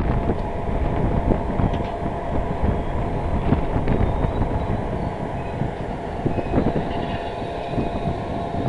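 Train running at speed, heard from an open carriage window: wheels rolling on the rails and rushing air, with a faint steady whine above it.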